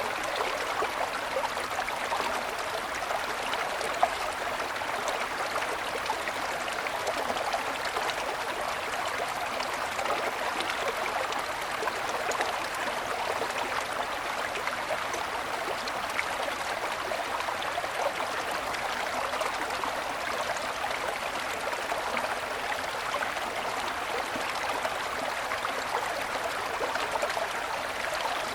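Small mountain stream flowing steadily over snow-covered stones, a continuous babbling and trickling.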